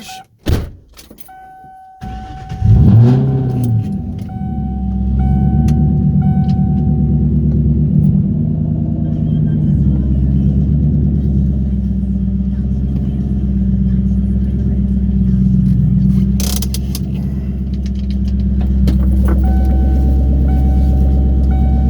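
A 1998 Mustang Cobra's 4.6-litre DOHC V8 cranks and catches about two seconds in, flares up, then settles into a steady cold idle; the owner says it makes none of its tapping while cold. The car's warning chime dings repeatedly as it starts and again near the end.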